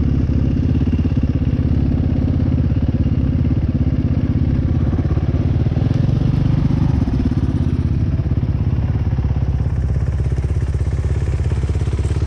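Dirt bike engine running steadily at low revs, with a slight swell in the middle.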